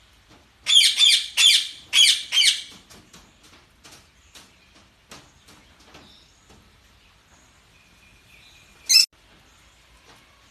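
Parakeets chirping: four quick bursts of rapid warbling chirps in the first three seconds, then soft scattered clicks and one sharp chirp near the end.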